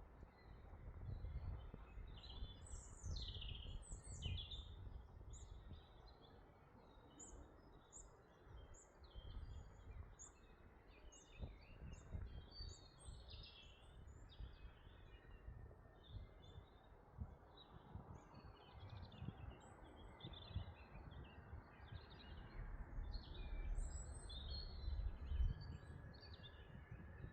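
Several songbirds singing and chirping, a dense run of short high chirps and whistles, over a low, rising and falling rumble.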